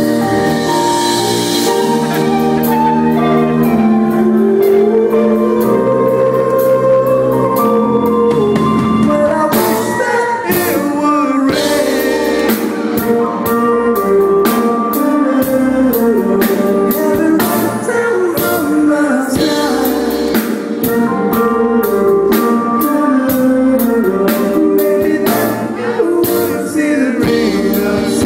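Live soul band playing, with a lead voice singing over held chords and a drum beat.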